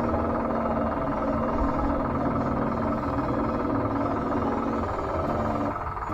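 Electric motors and gearing of a Double E 592 remote-control wheel loader whining steadily, the pitch shifting near the end.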